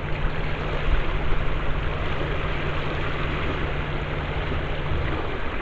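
A steady low motor hum under a constant rushing noise; the hum cuts off about five seconds in.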